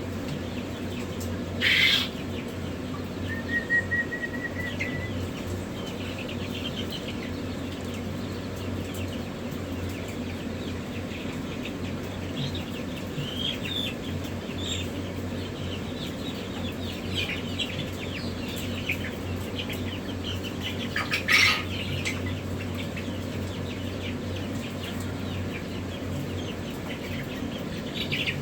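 Many newly hatched chicks peeping over a steady low hum, with two brief loud bursts, one about two seconds in and one about three-quarters of the way through.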